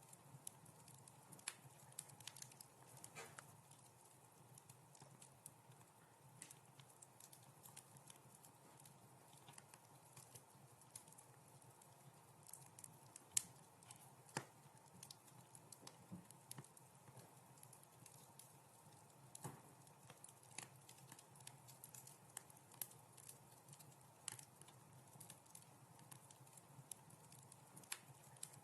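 Wood fire crackling faintly, with irregular sharp pops and snaps scattered throughout, the sharpest about halfway through.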